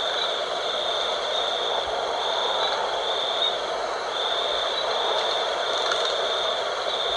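Night wind blowing steadily, with a high insect trill that stops and starts every second or so.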